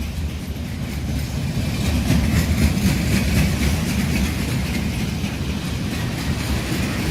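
Train passing on the line: a steady, loud rumble of wheels on rails with clicking from the rail joints.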